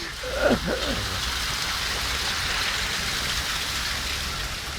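Heavy rain pouring down, a steady even wash of falling water.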